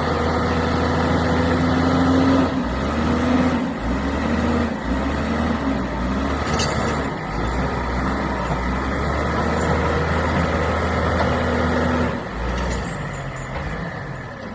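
Heavy vehicle engine running steadily, its pitch shifting a few times and easing off about twelve seconds in.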